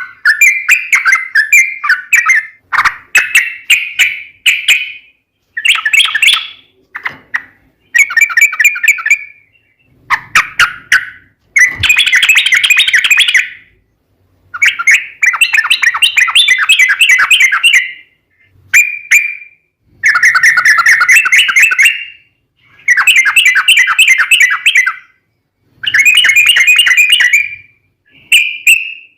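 Yellow-vented bulbul (trucukan) in full song: loud bursts of rapid, chattering repeated notes, each burst one to two seconds long, with short pauses between them.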